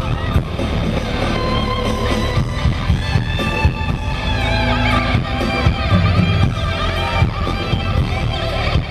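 Live concert music played over a venue's PA system, with guitar and a heavy, booming bass.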